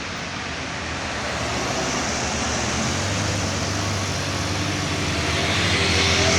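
Road traffic: a heavy vehicle's engine hum and tyre noise, growing louder toward the end as it approaches.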